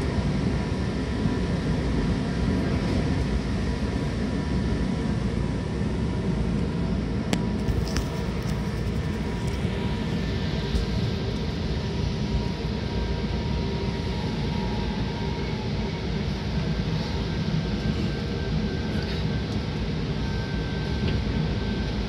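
Seibu 6000 series electric train with Hitachi GTO-VVVF drive, heard running from inside the car. There is a steady rumble of wheels on the track with faint steady whining tones, and a couple of sharp clicks about seven to eight seconds in.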